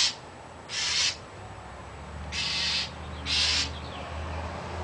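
A bird giving harsh, noisy squawks, four of them about half a second each, at intervals of one to one and a half seconds.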